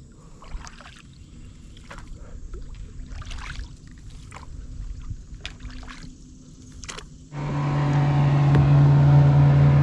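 Kayak paddles dipping and dripping in calm water, a few soft splashes every second or so. About seven seconds in, a much louder, steady engine drone cuts in suddenly and holds, the loudest sound here.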